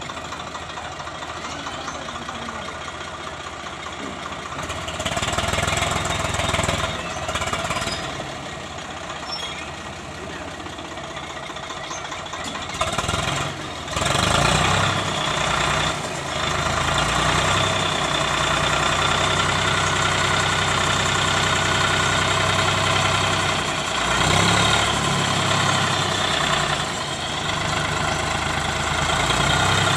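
Swaraj 855 tractor's diesel engine running, quieter and uneven at first, then louder and steady from about halfway through.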